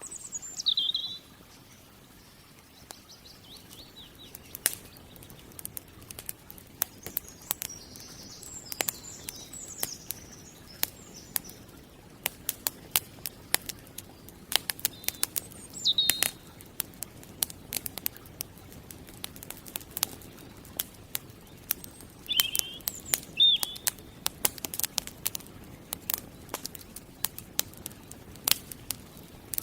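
Wood campfire crackling, with sharp irregular pops that come thicker in the second half. A bird gives short falling chirps now and then: near the start, about halfway, twice about three-quarters through, and at the end.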